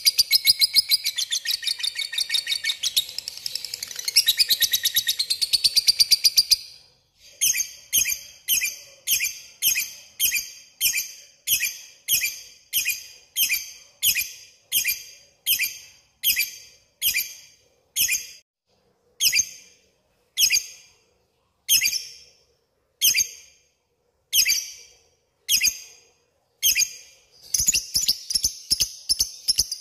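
Lovebird chattering in its 'ngekek' call: a long, rapid run of high chirps for the first six or so seconds. Then come separate sharp chirps about one to two a second, slowing toward one a second, before a fast chattering run starts again near the end.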